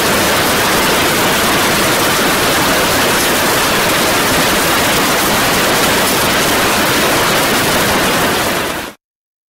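Heavy storm downpour: a steady, dense hiss of rain pouring onto the street. It fades out quickly to silence near the end.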